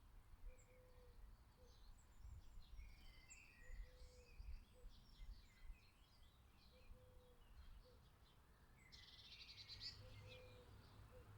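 Small garden birds chirping and calling, many short high calls overlapping, with a buzzy trill about nine seconds in, over a low background rumble.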